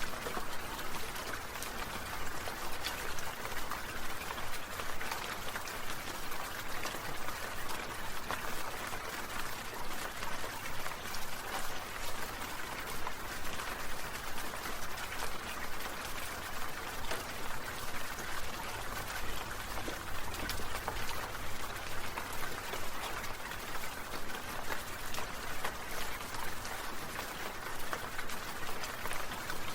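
Steady patter of falling water drops, a dense rain-like hiss sprinkled with many small quick ticks.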